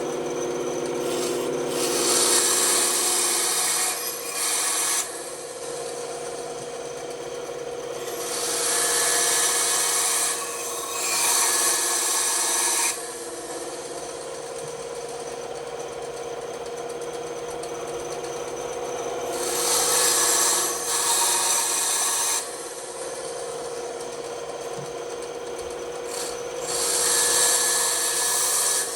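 A woodworking power tool running steadily with a constant hum, as wood is pressed against it in about five louder, hissy passes of two to three seconds each.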